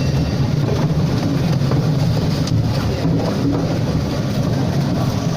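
A large engine running steadily with a loud, continuous low rumble.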